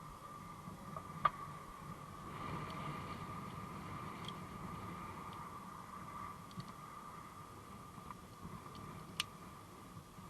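Faint steady high-pitched hum with a low, gusting rumble of wind on the microphone, and a couple of sharp clicks, one about a second in and one near the end.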